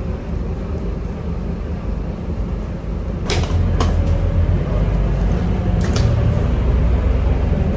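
A Scania K230UB bus's five-cylinder diesel engine running, heard from inside the bus. Two sharp knocks come a little under halfway through, then the engine grows louder, and another knock follows about three quarters of the way in.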